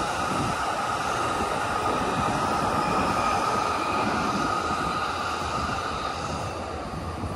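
Electric train running past on the tracks, a steady rumbling rush with a high, held tone over it that fades out near the end as the train moves off.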